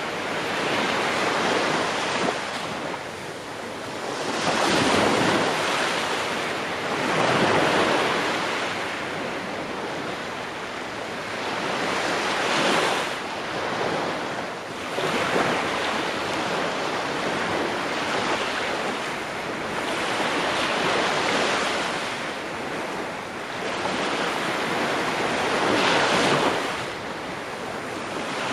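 Ocean waves breaking and washing on a shore, a steady surf noise that swells and falls every few seconds.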